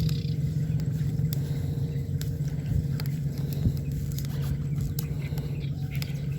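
A small engine running steadily with an even low hum, with scattered light clicks over it.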